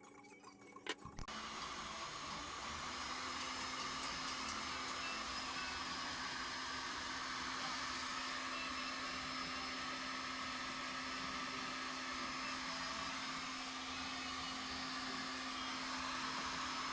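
A small electric blower motor, like a vacuum's, clicks on about a second in and then runs steadily with an even whoosh and a low hum.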